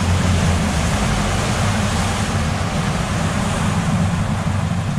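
Boat motor running steadily while under way: a constant low hum under an even hiss of wind and water.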